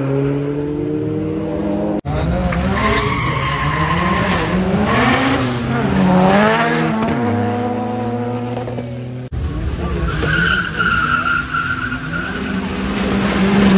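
Tuned diesel drag cars launching and accelerating hard, engine pitch climbing and dropping as they rev and change gear, with tyre squeal. The sound cuts abruptly twice as one car's run gives way to another's.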